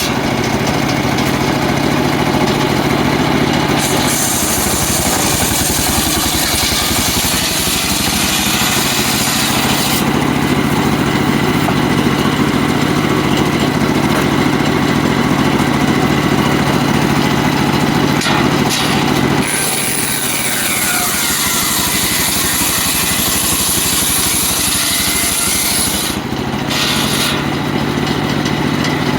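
Homemade engine-driven circular sawmill running steadily while its blade rips a mahogany log. The high, hissing cutting noise swells twice, from about 4 to 10 seconds in and again from about 20 to 26 seconds, and drops back to the engine's steady running between.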